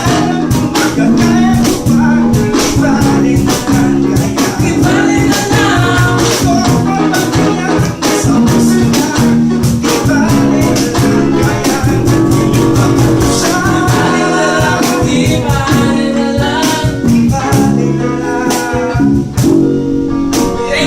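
A band playing in rehearsal: singing over guitar, with a steady beat of percussion hits.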